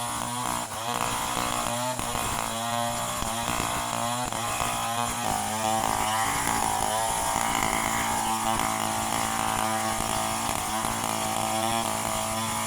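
Chainsaw engine running, its pitch rising and falling again and again as the throttle is worked.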